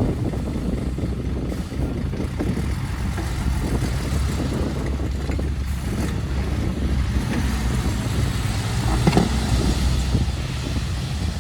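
Heavy dump truck's diesel engine running with a steady low drone, with a brief louder burst about nine seconds in.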